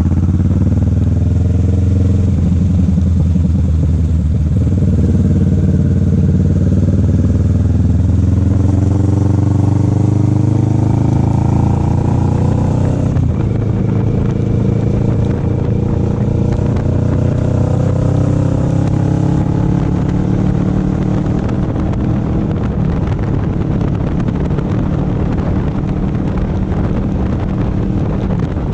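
Motorcycle engine under way, climbing in pitch as the bike accelerates, dropping suddenly about halfway through at a gear change, then climbing again before settling to a steadier note.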